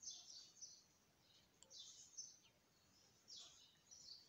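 Near silence with faint, high bird chirps in the background: short chirps that fall in pitch, in several small clusters.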